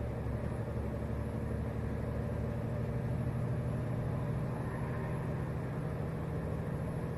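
Scania lorry's engine and road noise heard from inside the cab while cruising on the motorway: a steady low drone.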